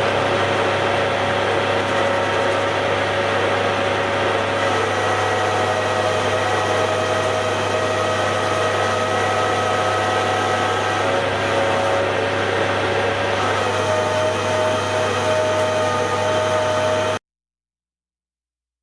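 Hare and Forbes AL335 metal lathe running under cut, taking material off a piece of metal stock: a steady motor hum with a ringing cutting tone over it. It cuts off suddenly near the end.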